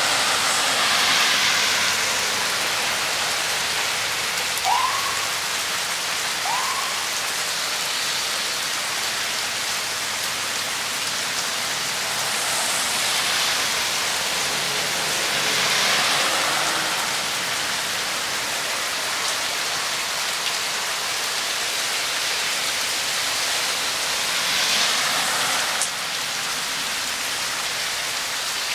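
Steady rain falling on rock, leaves and ground: an even hiss that swells a little a few times. Two short rising chirps come about five and seven seconds in.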